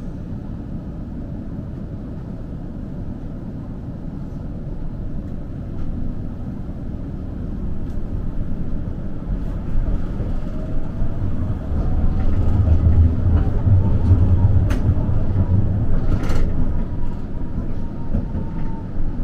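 Kagoshima City tram running along its tracks, heard from inside the car: a steady low rumble that grows louder about halfway through. A faint rising whine joins it, and two sharp clicks come near the end.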